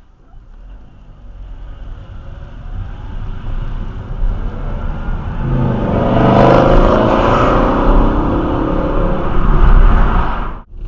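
A car engine revving and accelerating, growing steadily louder over the first six seconds and staying loud, then cut off abruptly near the end.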